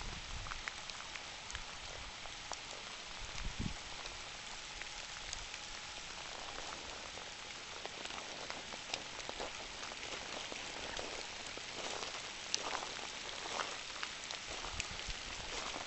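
Steady rain falling on trees and fallen leaves, with scattered drops ticking.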